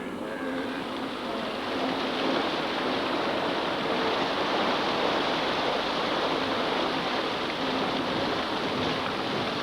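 Heavy splashing and churning of water that starts abruptly and then runs on steadily: wildebeest thrashing in a river during a crocodile attack.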